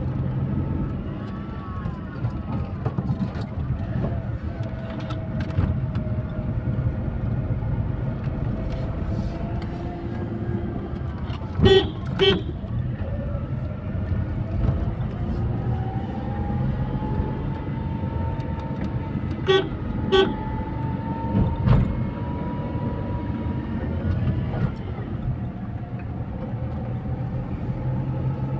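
Car-type vehicle engine running steadily uphill, its pitch slowly rising and falling, with two short double toots of the horn: one near the middle and another about two-thirds in.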